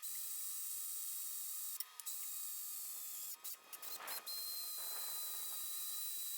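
Steady faint high-pitched hiss with a few brief dropouts, and a faint short rub or scrape about four seconds in.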